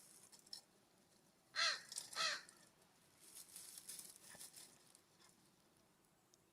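Two harsh, caw-like calls from a crow-family bird, about half a second apart, followed by faint rustling.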